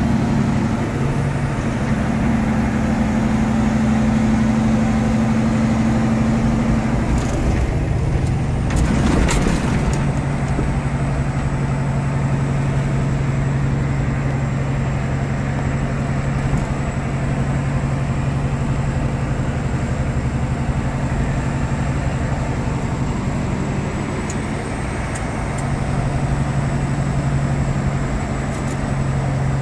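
Truck engine running under way, heard inside the cab as a steady low drone. The engine note shifts between about seven and ten seconds in, with a brief burst of noise around nine seconds.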